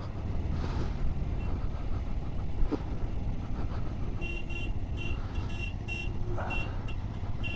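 Motorcycle on the move, its engine and wind noise running steadily, with a single click near the middle. From about halfway, a high beep repeats about twice a second.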